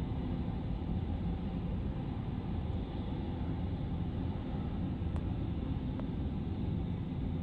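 Jet aircraft engines giving a steady low rumble.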